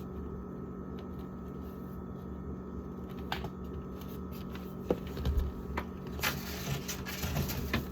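Egg cartons being handled: scattered light clicks and taps, turning into denser rustling and scraping about six seconds in, over a steady low hum.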